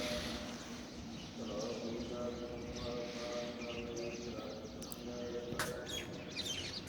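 Birds chirping over faint background voices and a steady low hum, with one sharp click about five and a half seconds in.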